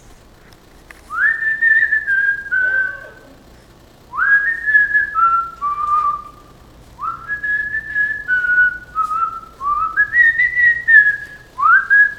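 A person whistling a tune in five short phrases, each opening with a quick upward slide and then stepping down through a few held notes, with brief pauses between them.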